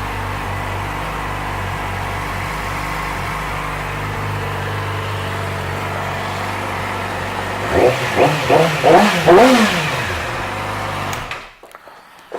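2009 Yamaha YZF-R6's 599 cc inline-four engine idling steadily, then revved in several quick throttle blips about eight seconds in, settling back before the sound cuts off abruptly near the end.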